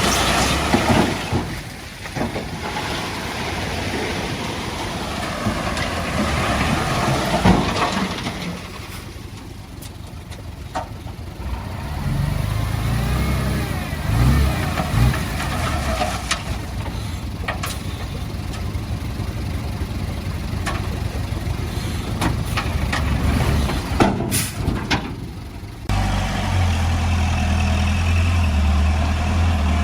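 Diesel engines of heavy earthmoving machinery running and working, with scattered sharp knocks and clanks; near the end a steadier low engine hum takes over.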